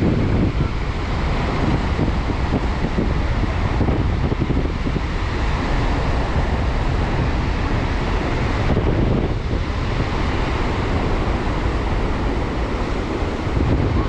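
Strong wind buffeting the microphone, rising and falling in gusts, over the steady wash of sea surf.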